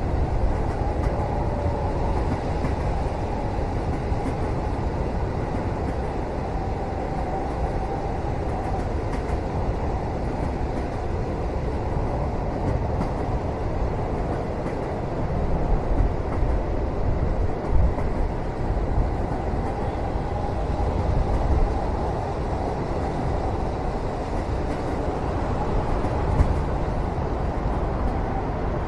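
Steady rumble of a train carriage running on the rails, heard from inside a sleeper cabin, with slight swells in loudness about halfway through.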